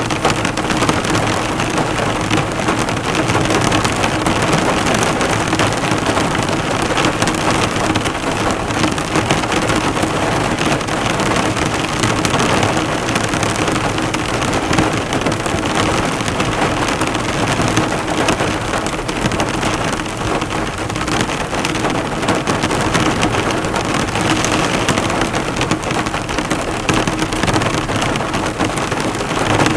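Heavy rain falling steadily on a car, the drops hitting and bouncing off the hood in a dense, even hiss.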